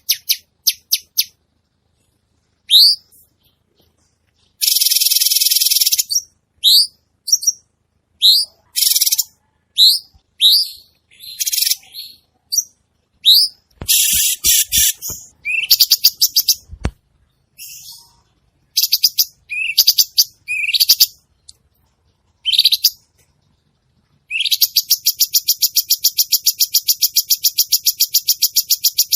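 A cucak cungkok singing vigorously, close by: a run of short, high chirps that sweep upward, broken by long, fast rattling trills about four seconds in and again from about 24 seconds in to the end.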